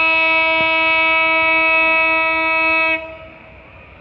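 Train horn sounding one long, steady, single-pitched blast that cuts off abruptly about three seconds in.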